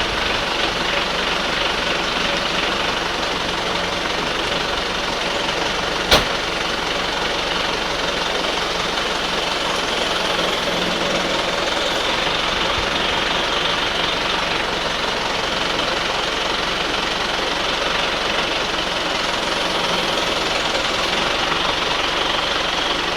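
An engine running steadily at a low idle, with one sharp metallic clank about six seconds in.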